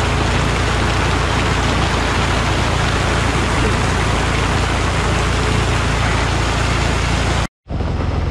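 Heavy rain with a steady, dense hiss, over an engine running with a low, even hum. The sound cuts out for a moment near the end and then carries on.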